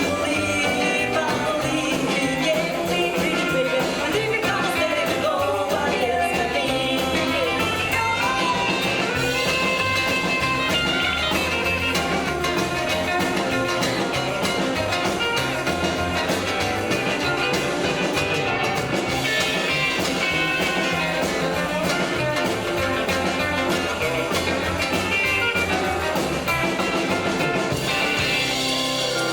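Live rockabilly band playing, with singing over a steady beat.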